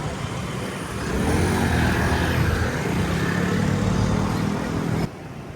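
A motor vehicle's engine passing close by on a city street, rising in pitch over a steady traffic rumble. The sound drops away suddenly near the end.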